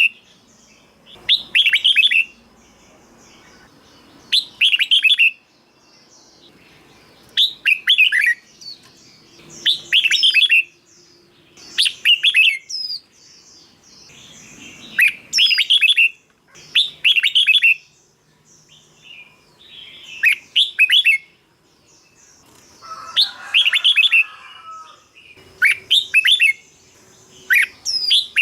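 Red-whiskered bulbul singing: short bright phrases of a few quick notes, repeated about every two seconds.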